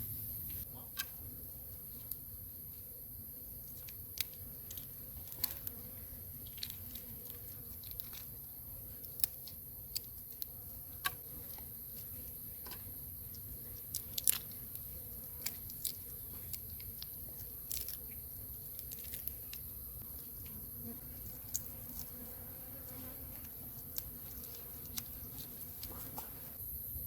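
Steady high-pitched insect drone, with scattered sharp clicks and crunches coming irregularly, a few seconds apart.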